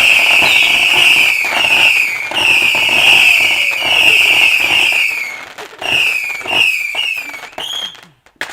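Whistling firework giving a rapid string of shrill whistles, each falling in pitch, over continuous crackling, dying away near the end.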